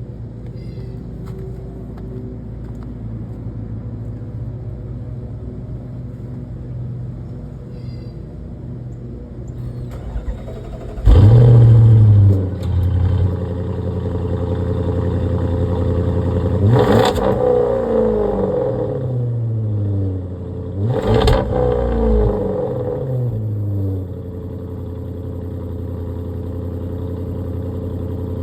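Audi S8 engine idling through its exhaust, then revved three times, hard and loud the first time about a third of the way in. Each rev falls back in pitch to a steady idle.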